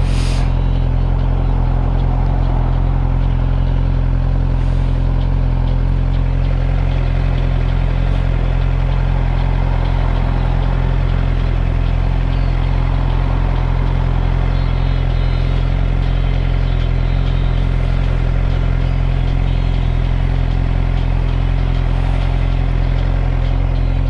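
2013 Suzuki GSX-R 600's inline-four engine running steadily at an unchanging engine speed while the motorcycle is ridden.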